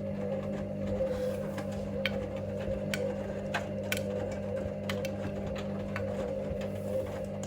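Hoover Link washing machine tumbling its drum during the main wash: a steady motor hum with a slightly wavering whine, and light clicks and knocks about once a second as the load turns in the drum.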